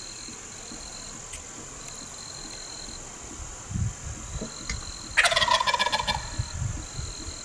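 Wild turkey gobbler gobbling once: a rapid rattling call about a second long, a little past the middle.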